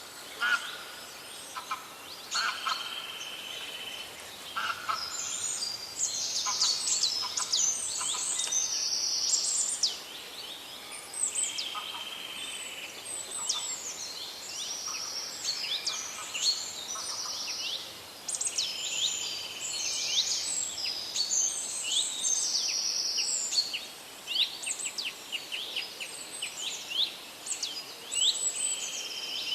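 A chorus of several songbirds singing and chirping at once: repeated trills, clear whistled notes and quick downward-sweeping chirps, overlapping without a pause.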